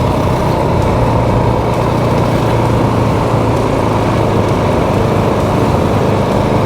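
Motorcycle engine running steadily while riding at an even speed, with no change in pitch.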